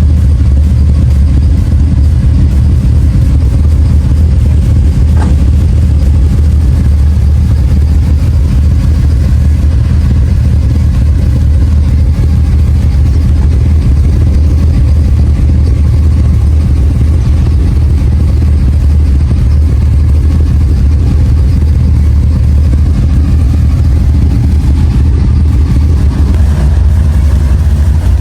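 Engine of a Nissan Skyline C110 'Kenmeri' running at a steady pace while the car is driven, a loud, even, low drone with no clear revving up or down.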